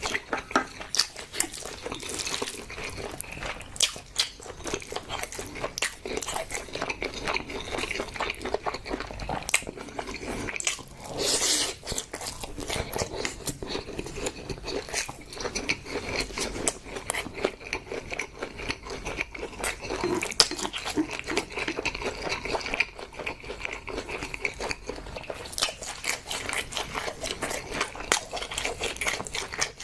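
Close-miked eating: a person chewing and biting food, with a steady run of irregular wet clicks and crunches, and a brief louder hissing sound near the middle.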